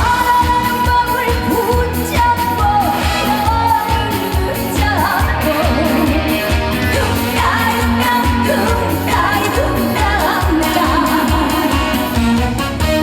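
Live trot band music with a steady beat, playing a break between the sung verses.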